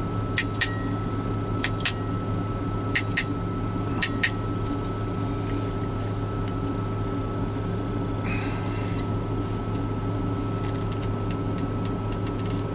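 A steady mechanical hum in a small closed space, with sharp clicks and clinks in close pairs over the first four seconds as a glass olive jar is handled. A short scraping rub comes about eight seconds in.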